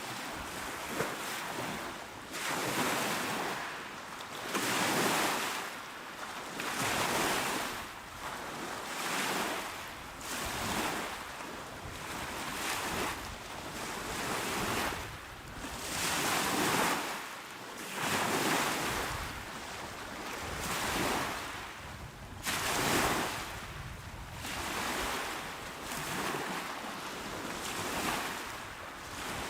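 Small, calm sea waves breaking and washing onto a shore, one wash rising and falling about every two seconds.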